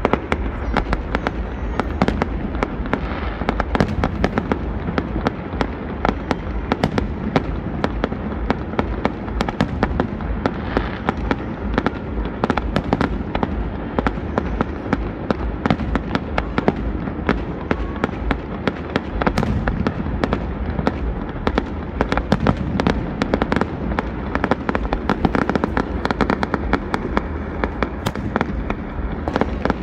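Aerial fireworks bursting overhead in a dense, unbroken run of bangs and crackles, several a second.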